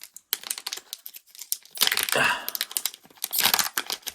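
Wrapper of a trading-card pack crinkling and tearing as it is opened by hand: a run of small crackles and clicks, with two louder rustling bursts, one about two seconds in and one near the end.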